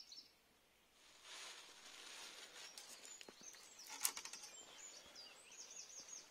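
Faint outdoor ambience: a soft rustling hiss with a few sharp knocks, the loudest about four seconds in, and a small bird giving a quick run of short, high chirps near the end.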